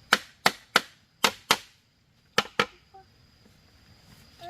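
Sharp, hard blows of a tool striking wood, seven in all: three in quick succession, then two, then two more, about a second apart between groups.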